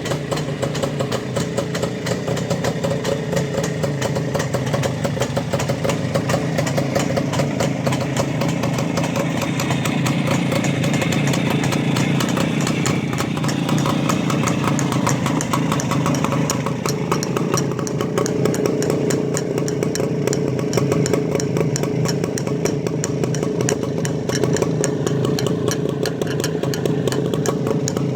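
A WSK motorcycle's single-cylinder two-stroke engine idling, putt-putting steadily at low revs.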